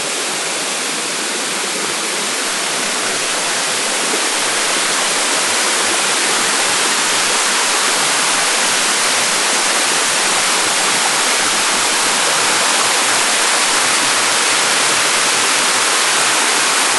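Steady rush of a waterfall heard close by, a dense even noise of falling water that grows slightly louder about four seconds in.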